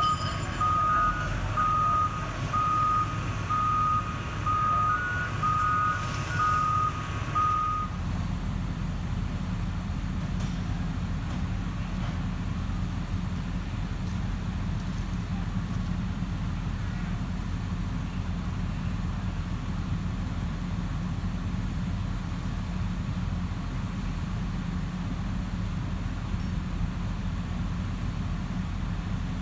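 Heavy equipment's backup alarm beeping about once a second, stopping about eight seconds in, over the steady low running of diesel engines.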